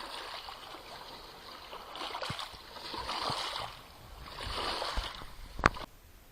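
Small Black Sea waves splashing and lapping at the shore, coming in swells a second or two apart. A sharp click near the end is the loudest moment, and then the sound falls away quickly.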